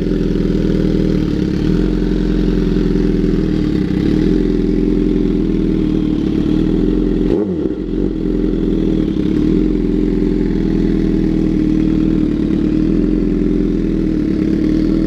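2011 Suzuki GSX-R750 inline-four idling steadily through an M4 GP slip-on exhaust with the baffle out, the catalytic converter deleted and an aftermarket mid pipe fitted. It is freshly started and still a little cold. There is a brief dip in the note about seven seconds in.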